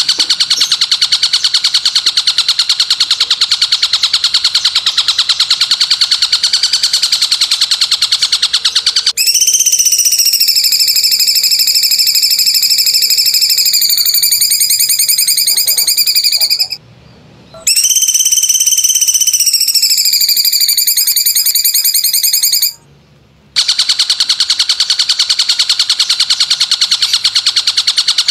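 Masteran songbird training recording. A fast, buzzy trill gives way to two long whistled notes, each held for several seconds and sagging slowly in pitch, with a short break between them. The trill then returns.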